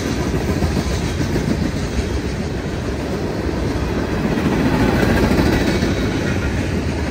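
Norfolk Southern freight train's cars rolling past, a loud, steady rumble of steel wheels on the rails with rapid clicking, swelling slightly about five seconds in.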